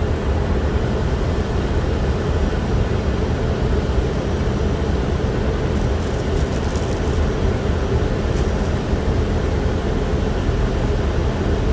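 Steady cockpit noise of an Airbus A320 on approach: airflow and engine hum with a low rumble and a constant mid-pitched drone. A few faint clicks come about six and eight seconds in.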